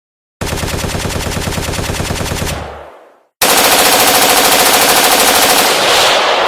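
Automatic gunfire sound effect: two sustained bursts of rapid, evenly spaced shots. The first stops about two and a half seconds in and its echo fades. After a brief silence, a louder second burst starts about three and a half seconds in and is dying away near the end.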